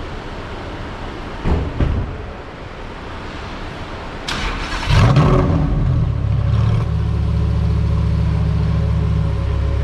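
A car engine is started: a short crank, then it catches with a flare of revs about five seconds in and settles into a steady idle. Two short knocks come earlier, about a second and a half in.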